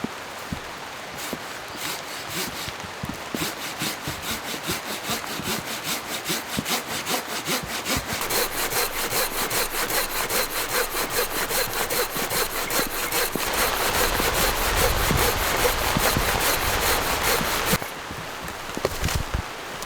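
Hand saw cutting through a dry hardwood log in even back-and-forth strokes, quickening and getting louder about eight seconds in, then stopping suddenly near the end.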